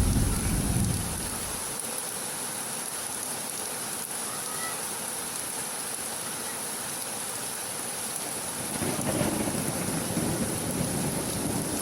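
Heavy rain falling steadily with thunder. A low rumble dies away in the first second or so, and another low rumble builds about eight and a half seconds in.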